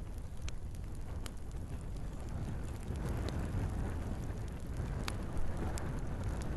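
Wood fire burning in a fireplace: a steady low rumble of the flames with scattered sharp crackles and pops from the logs, about six of them, the brightest about five seconds in. The rumble grows a little fuller about three seconds in.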